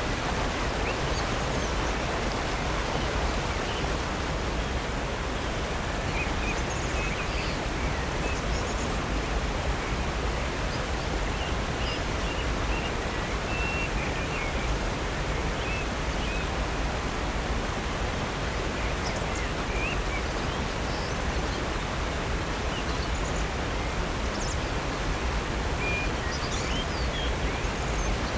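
Steady rush of water from Upper North Falls and Silver Creek, even and unbroken, with small birds chirping briefly and faintly now and then above it.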